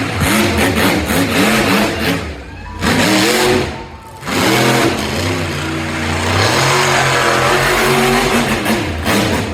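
Monster truck engine revving hard, its pitch rising and falling; the throttle drops off twice briefly, a couple of seconds in and again about four seconds in, and the revs climb back each time.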